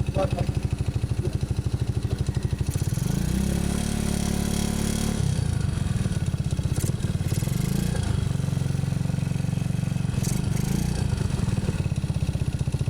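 Yamaha Crypton R motorcycle's single-cylinder engine idling, revved up briefly twice. It runs with a knocking noise that the owner puts down to its worn standard-size piston.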